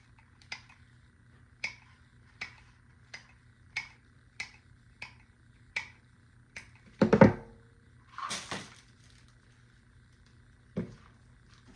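Cutters snipping the stems off an artificial baby's breath bush, one sharp snip about every 0.7 seconds. About seven seconds in there is a louder thump, followed by a brief rustle.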